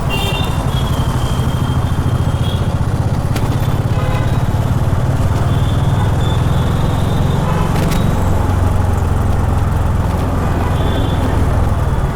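Honda H'ness CB350 air-cooled 348 cc single-cylinder engine running steadily while riding, with even low exhaust pulses throughout. Short high-pitched tones come and go on top.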